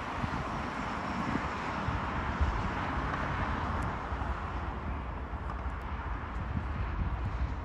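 Steady rushing rumble of an approaching freight train, with no clear engine tone.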